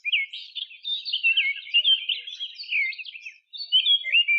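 A songbird singing a rapid, varied warbling song of quick whistled and chirped notes, with a short break about three and a half seconds in.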